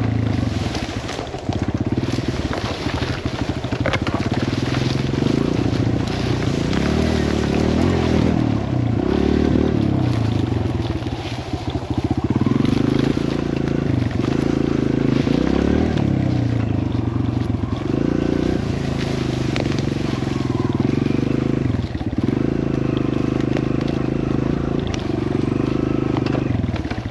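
Kawasaki KLX140L dirt bike's small single-cylinder four-stroke engine on a woods trail, revving up and easing off again and again as the rider works through the trees.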